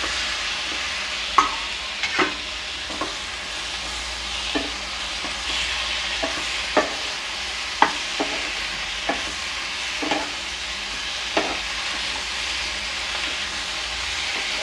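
Diced tomatoes sizzling in hot oil and onion masala in a non-stick frying pan while being stirred with a spatula. The steady sizzle is broken by irregular knocks and scrapes of the spatula against the pan, roughly one every second.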